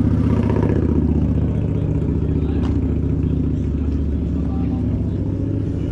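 A car engine running with a deep, steady rumble, easing off slightly toward the end.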